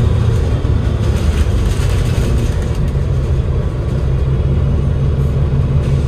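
Cummins L9 diesel engine of an Enviro500 MMC double-decker bus running steadily, heard from inside the cabin along with general ride noise.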